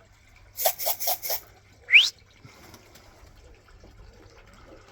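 Four quick rattling shakes, like grain shaken in a feed tin, then one short, sharp rising whistle: a pigeon fancier's calls to bring young racing pigeons down to the loft.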